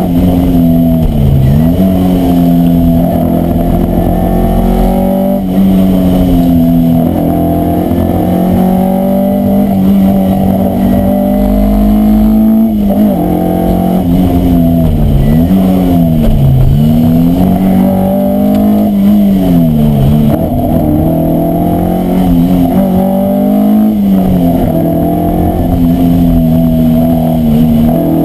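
Historic berlinette rally car's engine heard from inside the cockpit at stage pace, its revs dipping and climbing back again and again through a run of bends.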